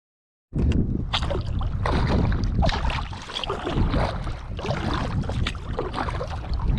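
Kayak paddle strokes splashing in lake water, with wind rumbling on the microphone. The sound cuts in about half a second in.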